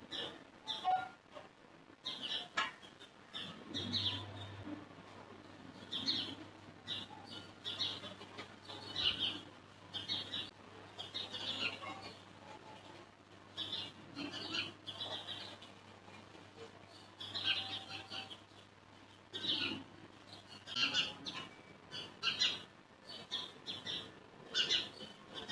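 Birds chirping in repeated short calls, with a faint steady low hum from about four seconds in until near the end.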